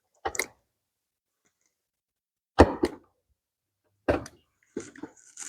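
Four or five short knocks and clicks of hand tools and parts being handled, the loudest about two and a half seconds in.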